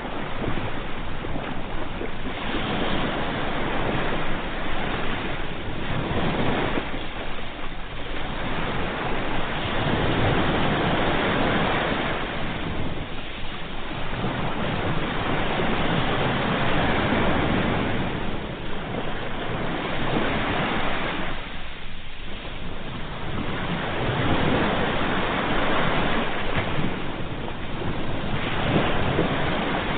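Ocean waves breaking in a continuous rush of surf that swells and eases every few seconds.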